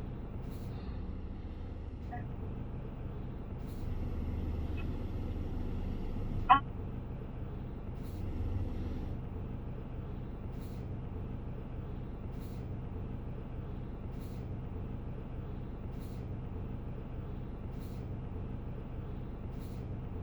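Steady low background rumble, with one sharp bird call about six seconds in and a fainter chirp near two seconds, from small birds mobbing an owl.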